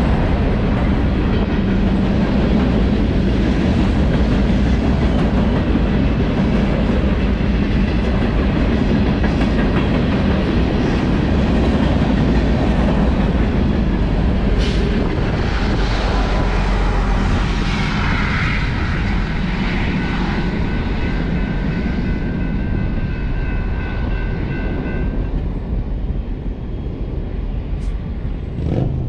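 Freight train rolling past at close range: a steady loud rumble of wheels on rail, with high ringing metallic tones from the wheels through the middle stretch that stop a few seconds before the end, when the sound eases off slightly.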